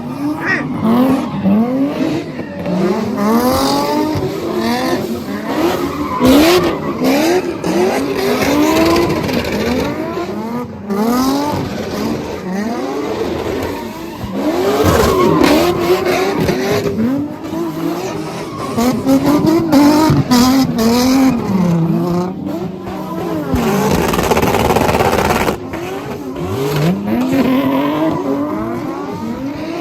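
Car engines revved hard again and again, each rev a rising whine, with tyres squealing and skidding as cars do burnouts and donuts. A longer stretch of tyre noise comes about three quarters of the way through.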